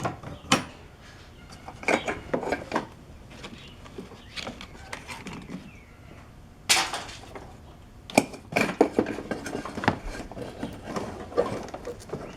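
Metal tools and engine parts clinking and knocking as they are handled during reassembly: scattered light clicks and clanks, with a louder clank about seven seconds in and a quick run of clicks just after.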